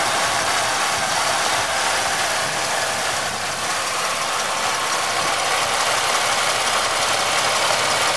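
1997 Chevrolet Malibu's 3100 (3.1 L) V6 idling steadily at operating temperature.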